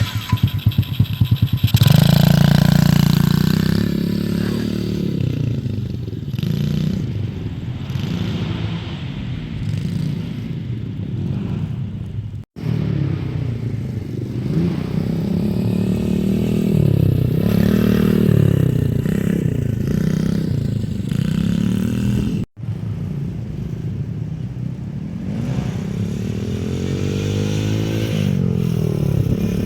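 Small 110cc four-stroke single-cylinder dirt bike engine running, its pitch rising and falling over and over as the throttle is opened and closed. Two brief gaps break the sound.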